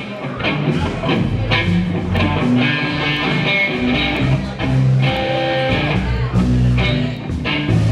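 Live rock band playing with no singing: electric guitars and bass guitar, with a drum beat, the bass notes changing about every half second.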